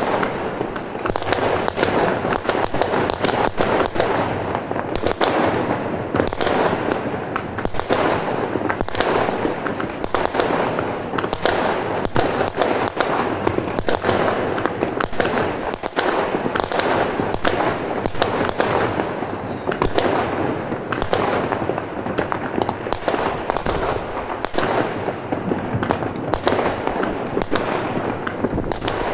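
Fireworks and firecrackers going off in a dense, continuous barrage: countless overlapping bangs and crackles with no pause between them.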